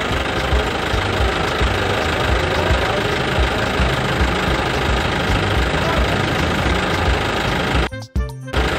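A vehicle engine running steadily with a low, rhythmic knocking pulse a few times a second. It cuts out briefly about eight seconds in, then resumes.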